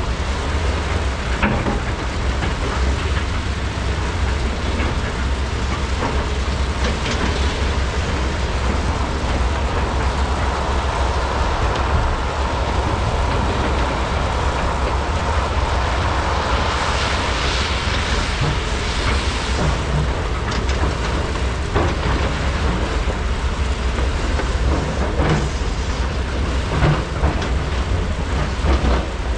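Large hydraulic excavators loading at a mine: diesel engines running steadily under load, with scattered knocks and clanks of buckets and rock, and a rushing hiss for a few seconds around the middle.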